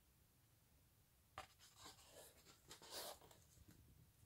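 Faint rustle of a photo album's page being handled and turned, starting with a light tick about a second and a half in.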